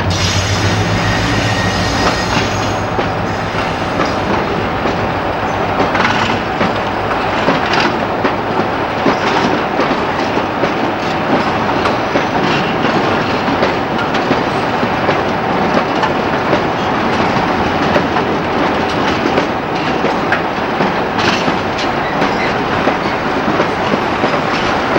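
A Class 60 diesel-hauled freight train passing: the locomotive's engine note fades over the first couple of seconds, then the wagons roll by with a steady rumble and wheel clatter over the rail joints.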